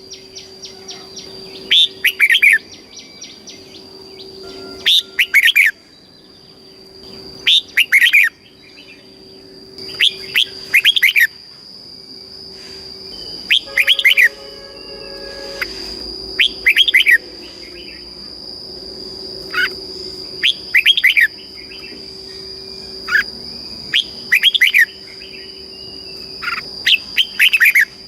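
Red-whiskered bulbul singing: short, bright, warbled song phrases repeated about every two to three seconds, over a steady high-pitched whine in the background.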